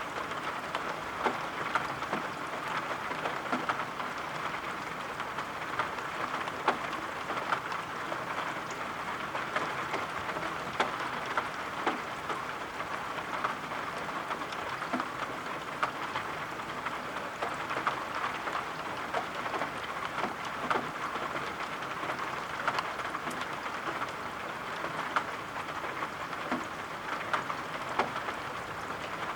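Steady rain falling, an even hiss with many scattered sharp ticks of drops or small crackles throughout.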